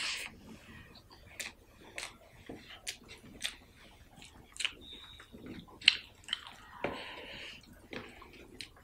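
Close-up eating sounds of curry and rice eaten by hand: wet chewing with irregular clicks and smacks of the mouth, and fingers working the rice on the plate.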